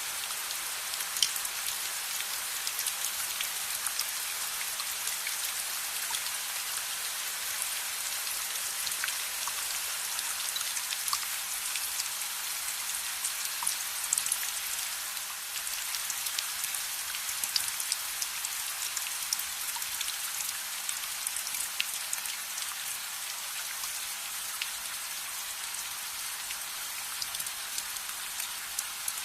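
Steady rain: a dense, even hiss of falling rain, with scattered sharp ticks of individual drops.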